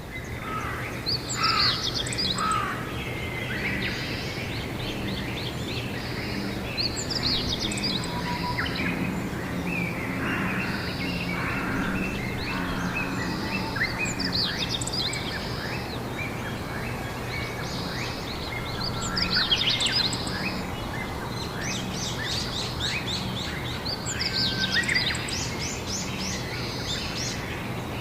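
Several wild birds singing and chirping, with a bright trilled song phrase coming back about every six seconds, over a steady low background hum.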